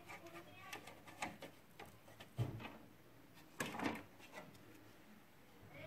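Scattered clicks and knocks from handling the printer's parts, with a low thump about two and a half seconds in and a louder clatter a little before four seconds.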